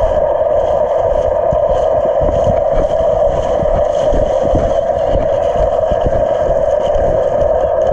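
A steady engine drone holding one pitch throughout, with a low rumble underneath.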